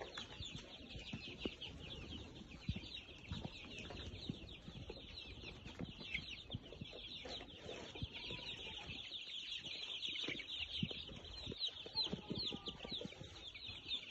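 A flock of young, fifteen-day-old chickens peeping and cheeping together: many short, high-pitched calls overlapping without pause, with scattered faint knocks underneath.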